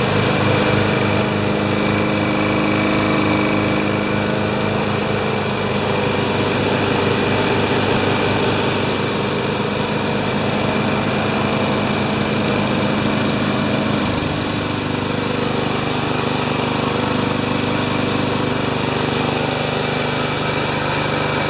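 Two Tecumseh single-cylinder lawn mower engines running at once, their notes beating against each other in a steady pulsing. About two-thirds of the way through, the pattern shifts as one engine's note drops.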